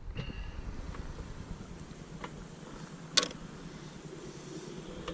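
Steady low rumble of a gas camping stove burning under a Ridgemonkey pan. Over it come a few light clicks and one sharp knock of cookware being handled, about three seconds in.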